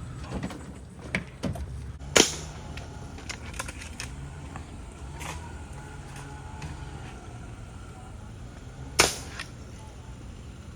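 Two sharp gunshots, about seven seconds apart, from a gun fired at iguanas, over a steady low hum.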